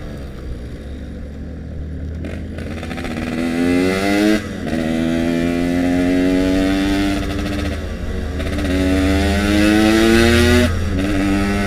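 Yamaha RX-King two-stroke single-cylinder engine with stock gearing, the bike winding down at first, then accelerating hard through the gears. Revs climb, drop sharply at each upshift (about four and a half seconds in, about eight seconds in, and near the end), then climb again.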